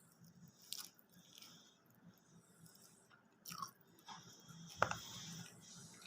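Close-up eating sounds of McDonald's fast food: a few crunchy bites, the loudest one near the end, and chewing.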